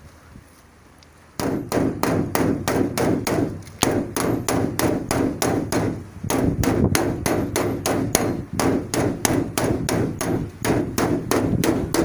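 A hammer rapidly tapping out a dent in a car body panel: quick, even strikes at about five a second, starting a little over a second in and pausing briefly twice.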